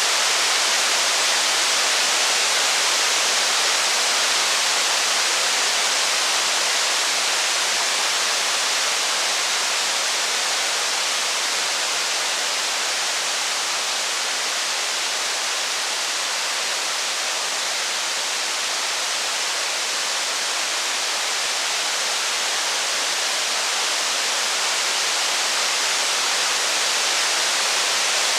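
Steady heavy rain, an even hiss that swells slightly softer in the middle and back up.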